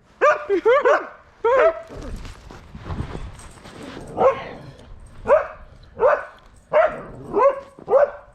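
Huskies barking and yipping: short, pitched calls that rise and fall, several close together near the start and then about one a second in the second half. Between them is a stretch of low, rumbling noise.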